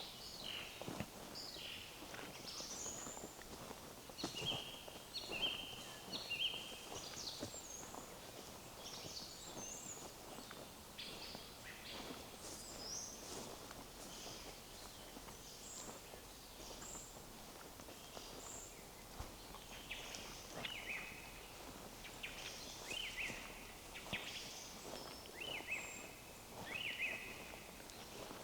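Several songbirds singing in short repeated phrases, with footsteps on a forest path.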